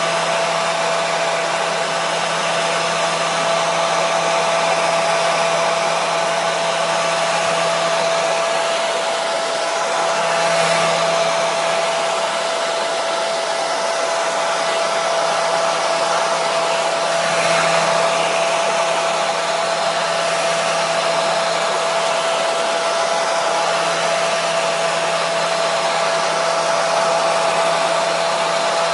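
Hair dryer running steadily: a continuous rushing airflow with a steady motor hum, used as white noise to soothe a colicky baby.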